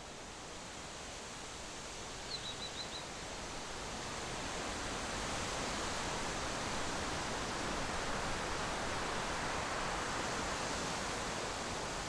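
Steady rushing noise that grows louder over the first few seconds and then holds, with a short run of five quick high chirps about two seconds in.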